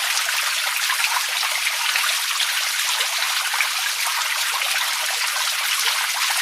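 Water running and splashing steadily, a continuous rush made of many small splashes.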